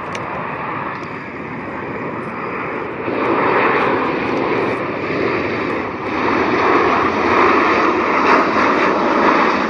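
Jet airliner's engines passing close by: a loud, steady engine noise that swells about three seconds in and stays loud.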